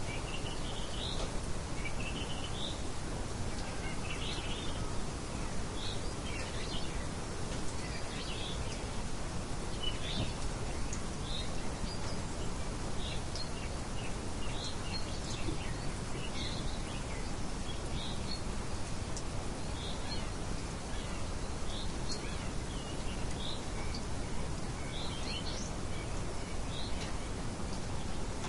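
Songbirds chirping: short, high calls about every second over a steady background hiss.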